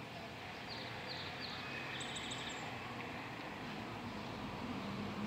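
Steady outdoor background hum with a few short, high bird chirps in the first half.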